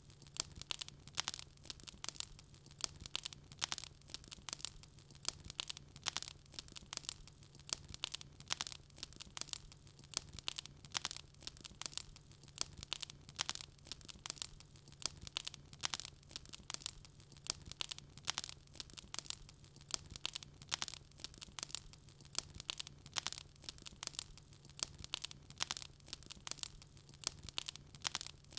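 Wood fire crackling: dense, irregular snaps and pops several times a second, with a faint low steady hum underneath.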